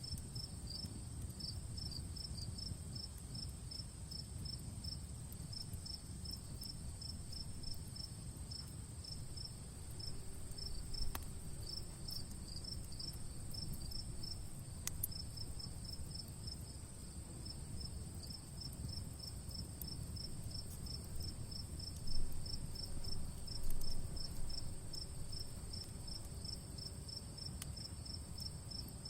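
Crickets chirping in a steady, even rhythm over a continuous high insect trill, above the low rush of a campfire with a few sharp crackles and pops.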